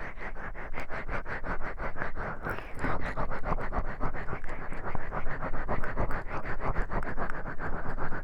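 Oiled hands massaging the silicone ears of a 3Dio binaural microphone: wet, slick rubbing in rapid, even strokes close to the mic.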